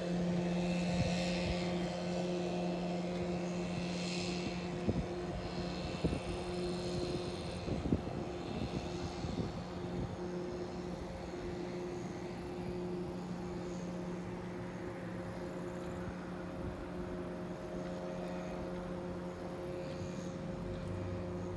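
An engine running at a steady drone, with an even low hum that holds its pitch and a few short clicks in the first several seconds.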